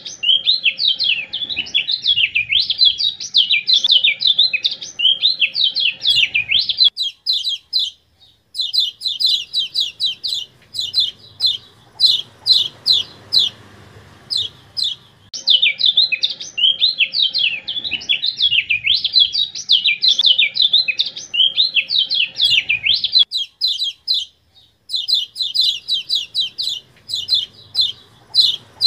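Kecial kuning (Lombok white-eye) song, looped: long stretches of fast, wavering high twittering alternate with runs of sharp, evenly repeated chip calls. The pattern repeats about every 15 seconds, as on an edited bird-training recording.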